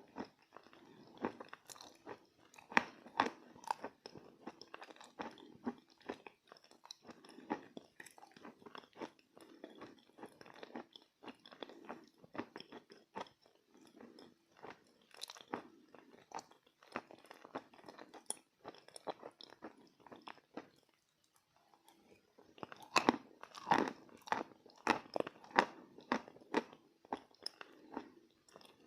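Chalk with clay paste being bitten and chewed close to the microphone: a dense run of crisp crunches. The crunching drops briefly, then comes louder and faster near the end.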